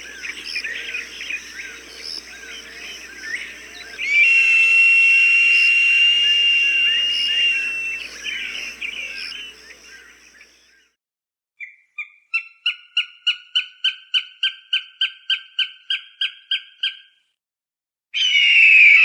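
Falcon calls, as used to scare off pigeons and starlings. Over dense small-bird chirping, a long steady high call is held for about four seconds. Later comes a rapid even series of about seventeen sharp 'kek' notes, roughly three a second, and a harsh scream near the end.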